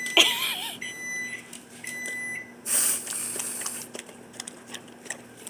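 Three short electronic appliance beeps, with a brief wavering whine over the first, then about a second of hissing spray from an aerosol whipped cream can.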